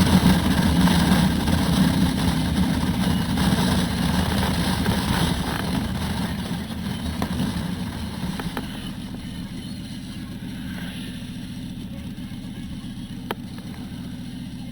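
Turbocharged Harley-Davidson Road Glide V-twin running on the road, heard from a helmet-mounted camera. It grows steadily quieter over the first eight seconds or so, then runs lower and steady.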